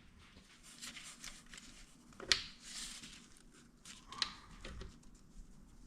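Light clicks and rustling from hands and tools working on a motorcycle engine during cam timing, with two sharper clicks about two seconds and four seconds in.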